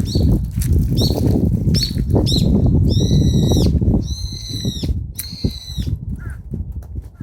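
Birds calling: a few short high calls, then three drawn-out calls in the middle, over a loud low rushing noise that fades about halfway through.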